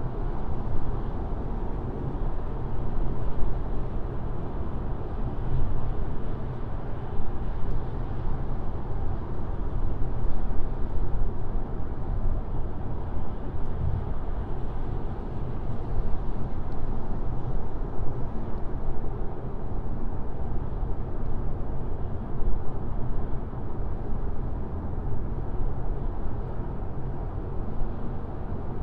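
Car driving at highway speed: a steady low rumble of road and tyre noise.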